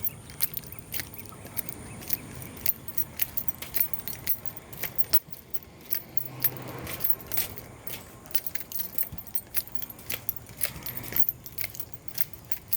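Irregular light clicks and metallic jingling, several a second, from small items jostling as someone walks while filming.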